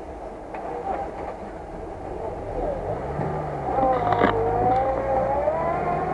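Lada Niva's engine revving up under load in deep mud. The engine note rises and gets louder about halfway through, then holds high and wavers in pitch.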